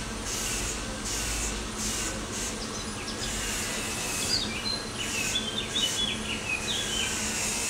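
Birds chirping in short calls through the second half, over a high hiss that swells and fades steadily a little faster than once a second, and a faint low hum.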